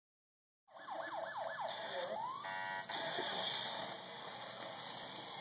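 Tonka Mighty Fleet toy police car's electronic siren: four quick rising-and-falling yelps, a rising whoop, then a short buzzing horn tone about two and a half seconds in, followed by faint hiss.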